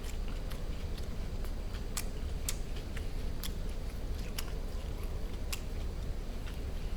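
Close-miked eating of roast duck: wet mouth clicks and lip smacks of chewing, irregular, about two a second.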